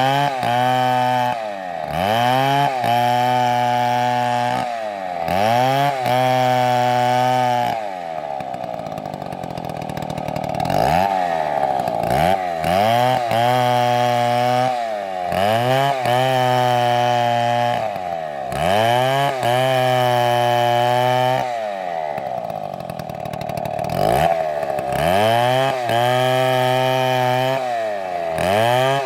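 Stihl MS720 chainsaw running and revving over and over, its pitch dipping and climbing back every second or two. Twice it drops away for a few seconds and slowly winds back up.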